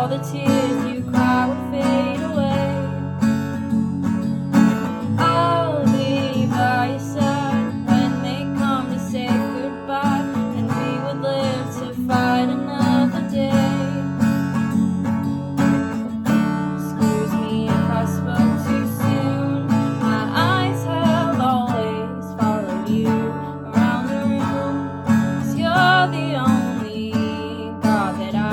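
Song played on strummed acoustic guitar with a sung melody over it.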